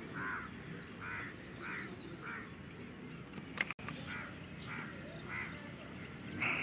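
A bird calling outdoors in a series of short calls, one about every half second to second, over a low steady background hiss. A sharp click and brief dropout come about midway, and a louder drawn-out note comes right at the end.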